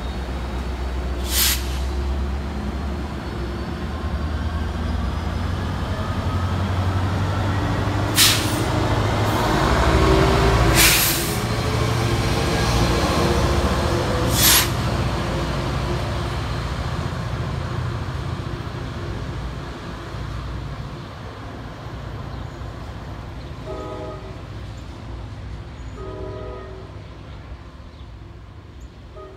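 NJ Transit train pulling out with its PL42AC diesel-electric locomotive pushing at the rear: a heavy rumble as it passes, with an engine note rising about halfway through and a few sharp short noises, then fading as the train moves away. Near the end a train horn sounds in short blasts.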